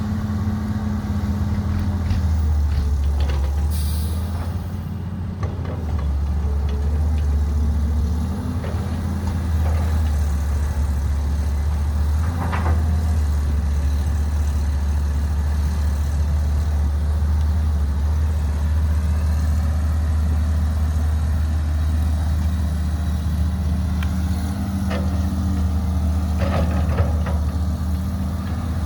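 Caterpillar 312B excavator's diesel engine running, its low drone shifting in pitch and level several times as it works. A brief hiss comes about four seconds in, and a few short knocks come near the middle and towards the end.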